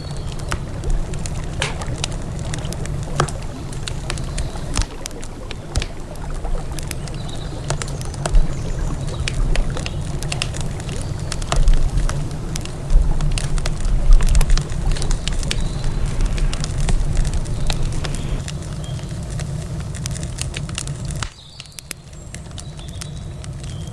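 Wood campfire crackling, with frequent sharp pops and snaps over a steady low rumble. About 21 seconds in, the rumble drops away abruptly and the crackling goes on more thinly.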